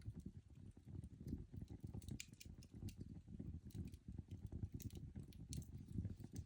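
Coal fire burning in a grate: a dense, low crackle throughout, with a few sharp higher snaps and pops now and then.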